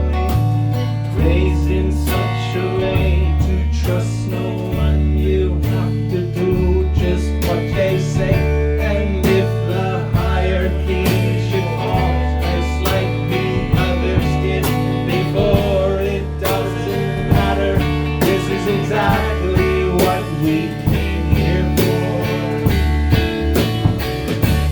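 A live band plays an instrumental break with no singing: acoustic guitar over a repeating low bass riff, with steady drum hits.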